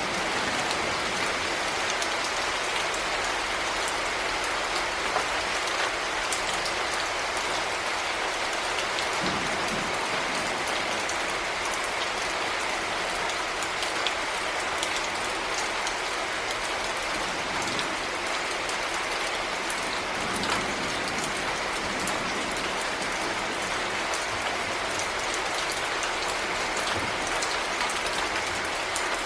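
Heavy rain falling steadily, a constant even hiss with scattered sharp ticks of individual drops striking a surface.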